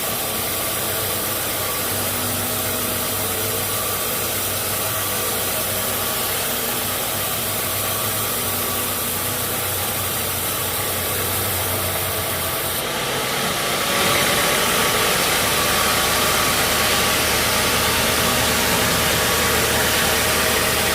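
Sawmill machinery running with a steady engine drone. About fourteen seconds in it gets louder, with a rushing noise added.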